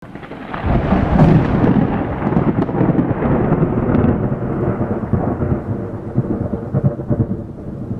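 Thunder rumbling through rain. It swells in over the first second and slowly eases off towards the end.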